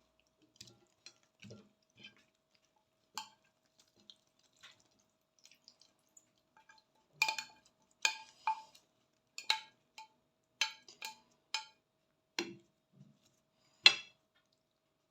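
Utensils clinking against dishes while a glass-noodle salad is dished out onto a plate. There are scattered soft clicks at first, then a run of sharp clinks through the second half.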